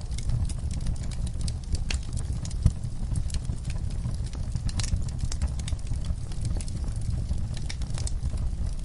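Fire burning in a fireplace, crackling with frequent small pops over a low steady rumble, and one louder pop a little under three seconds in.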